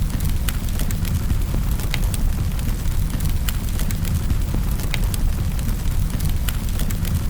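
Wood fire burning in a fireplace: a steady low rumble of flames with sharp crackles and pops scattered irregularly, a few each second.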